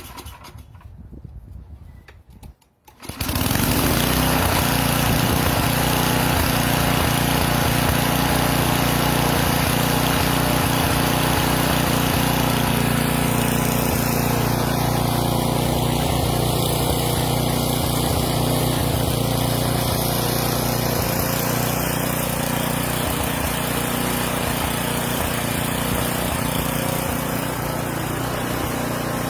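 An engine starts about three seconds in and then runs loud and steady at a constant speed.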